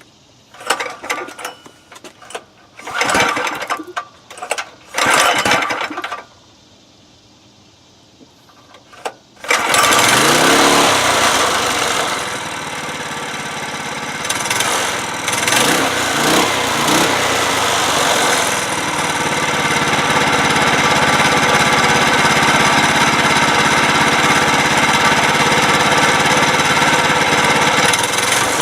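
Mini bike's small gas engine starting about ten seconds in after a few short noises, revving up and down a couple of times, then running steadily with the choke off. The chain is not attached, so the engine and torque converter turn with no load.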